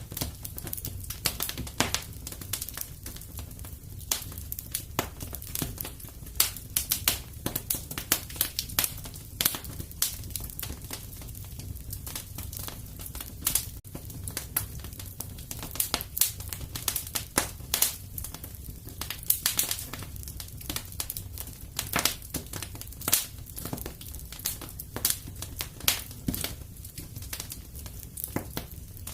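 Wood fire crackling in a fireplace: irregular sharp pops and snaps, some louder than others, over a low steady rumble.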